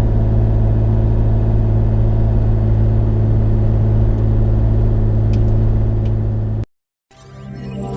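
Bobcat E35 mini excavator's diesel engine running steadily at an even pitch, cut off abruptly about six and a half seconds in. After a brief silence, soft music fades in near the end.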